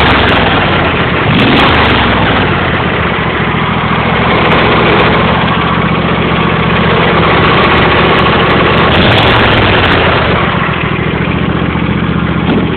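John Deere L111 lawn tractor's 20 hp Briggs & Stratton V-twin running steadily at high throttle, sounding healthy, and easing off slightly about ten seconds in.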